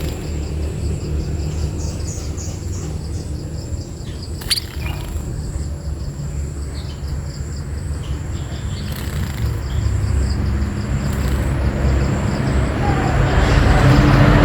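Small birds, burung pipit, giving short, scattered chirps, one sharper call about four and a half seconds in. Underneath runs a steady low rumble like an engine or traffic, growing louder toward the end.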